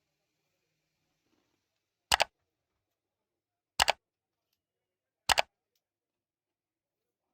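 Three sharp double clicks about a second and a half apart, each one short and without ringing, against near silence.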